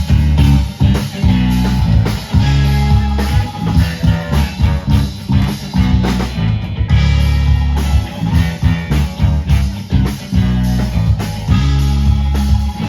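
Live band playing an instrumental passage with guitar and drums, loud and driving, with no singing.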